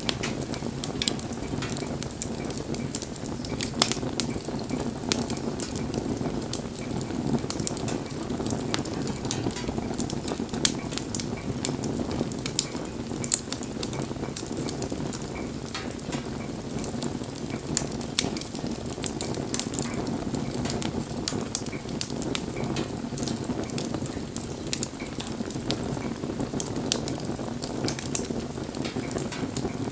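Wood campfire crackling, with frequent sharp pops over a steady low rush.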